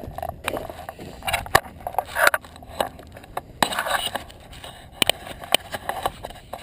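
Irregular clicks, knocks and light clinks, like handling parts or controls, with no engine running.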